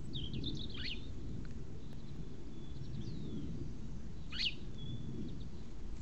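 Small garden birds chirping: a few short high calls in the first second, another near the middle and a sharp sweeping call about four and a half seconds in. Underneath is a steady low rumble of outdoor background noise.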